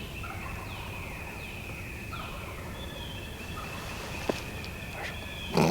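Woodland ambience: a steady high-pitched drone under a bird's repeated short, falling whistled calls. A sharp click about four seconds in and a brief rustling knock near the end.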